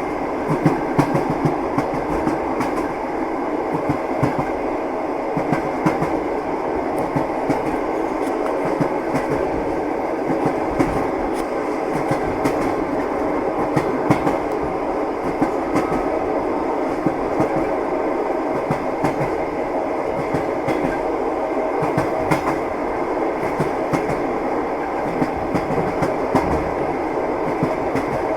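Moving train: a steady rumble with the wheels knocking and clicking over the rails, many short clacks at uneven spacing.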